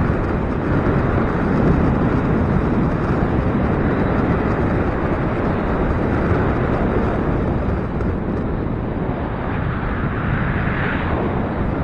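Gusty wind blowing across the microphone, a steady rushing noise that eases slightly about eight seconds in.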